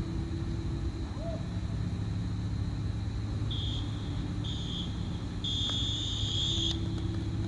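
Referee's whistle blown three times, two short blasts and then a longer one, the signal that ends the half, over a steady low rumble of wind on the microphone.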